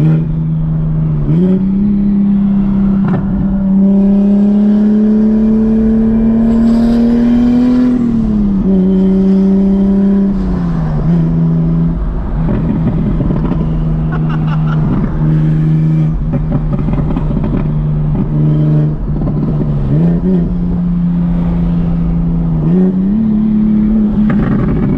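Heavily modified big-single-turbo BMW 335i's turbocharged inline-six pulling hard under acceleration. Its pitch climbs steadily for several seconds, then drops as it shifts or lifts, and it pulls up again several times, with rough crackling in the gaps between pulls.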